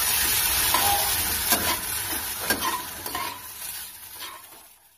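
Vegetables and spice paste sizzling in oil in a non-stick kadai while a metal spatula stirs them, scraping and knocking against the pan a few times. This is the masala being fried down with the vegetables, and the sizzle dies down toward the end.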